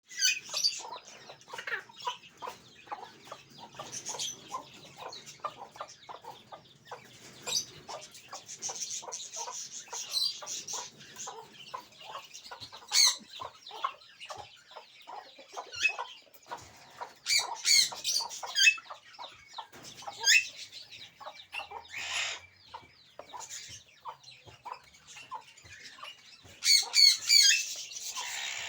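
Aviary birds calling: a steady chatter of short chirps and clucks, broken by loud, sharp, high screeches several times, loudest near the end.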